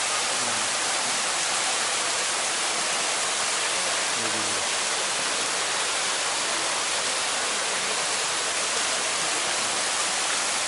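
Kor Luang waterfall, water falling steadily from a cliff into the pool below: an even, unbroken rush of water.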